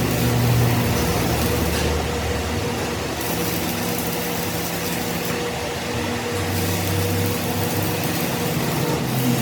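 A machine running steadily: a low motor hum with a constant tone over a broad hiss.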